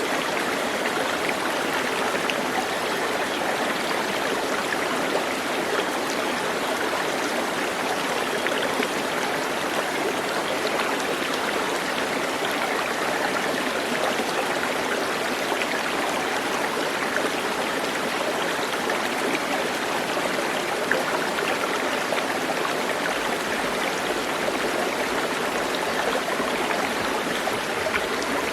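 Running water, a steady, even rush.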